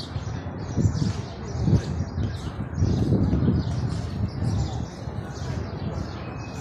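Small birds chirping over and over in short high calls, over a low street rumble that swells a few times.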